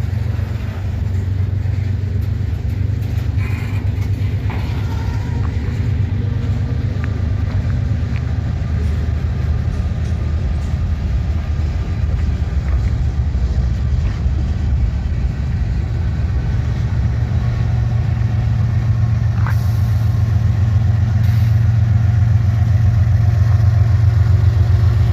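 Diesel freight locomotive's engine running with a steady low rumble that grows louder over the last several seconds, as the locomotive works during switching moves.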